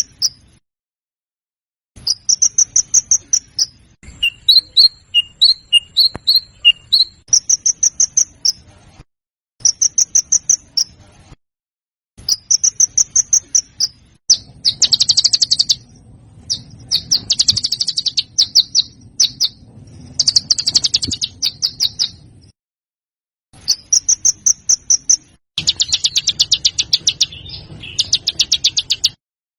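Looped songbird tutor recording: short phrases of rapid, high chattering notes, each about a second long, separated by edited gaps of dead silence. Several longer, denser, harsher rattling phrases come in the middle and near the end.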